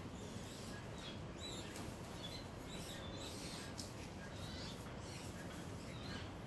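Small birds giving short, high chirps every second or so, which the onlookers take for birds trying to drive a snake away from their nest.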